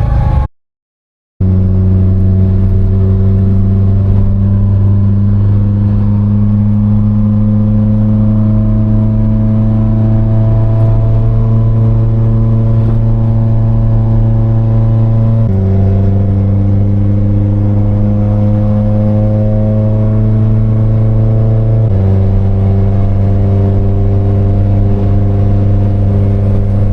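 Nissan 180SX's engine droning steadily while driving, its pitch slowly creeping up and then dropping in two abrupt steps. There is a brief moment of silence just after the start.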